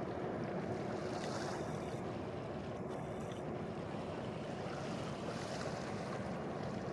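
Steady low rumble of a large ship's engines heard across the water, mixed with wind on the microphone. Waves wash in softly about a second in and again about five seconds in.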